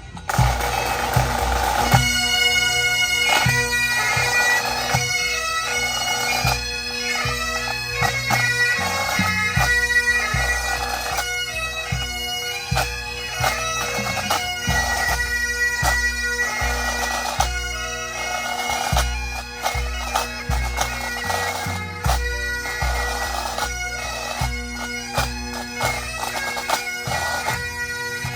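Pipe band of Great Highland bagpipes and drums playing a tune. The pipes strike in at the start and the melody settles in about two seconds in, over the sustained drones and a steady beat of the drums.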